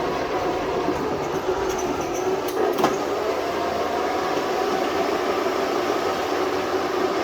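12-volt starter-generator driving an electric-converted Sears garden tractor through its original transmission gears, running with a steady whine. A short click about three seconds in.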